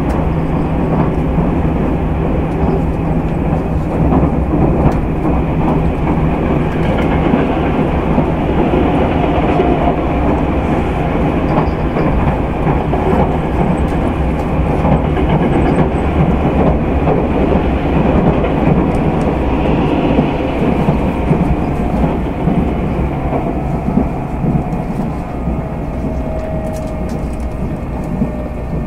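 Running sound of a Tobu 200 series motor car (MoHa 208-2, rebuilt from a 1720 series DRC car) at speed: a continuous rumble of wheels on rail with a steady low motor tone that drops away about twelve seconds in.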